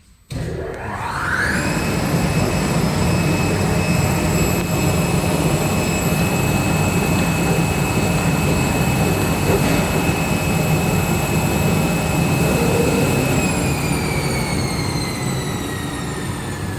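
Flatbed CNC drag-knife cutter running a test cut of a cross. A motor whine rises in pitch over the first second or so, then holds steady over a rushing noise and low hum. About three-quarters of the way through it starts winding down, falling in pitch.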